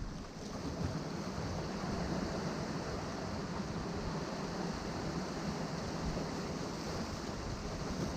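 Atlantic surf washing steadily against a rocky shore below a cliff, with wind buffeting the microphone in low thumps about the start and near the end.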